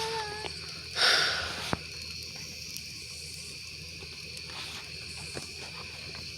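Wood campfire crackling and hissing, with a louder hiss about a second in, then a sharp pop and scattered small crackles over a steady hiss.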